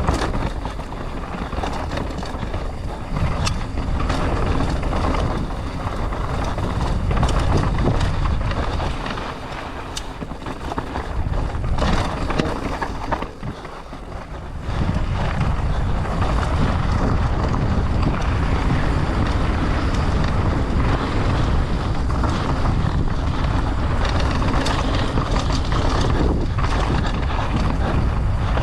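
Mountain bike descending at speed: wind rushing over the microphone, tyres on dirt and rock, and the bike clattering over rough ground with many sharp knocks. The rush eases for a few seconds about halfway through, then returns.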